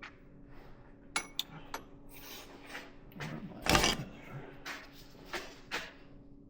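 Metal hand tools clicking and clinking against the wheel hub while the greasy cotter pin is worked on, with one louder clatter about halfway through. A steady low hum runs underneath.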